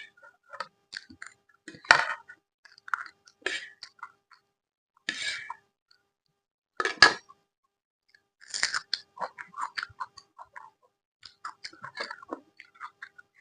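Close-miked chewing of food: irregular wet smacks and crunchy bites with short pauses, two louder bites about two and seven seconds in.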